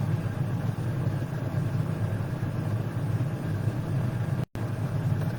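Steady low hum with a faint hiss under it, cutting out completely for an instant about four and a half seconds in.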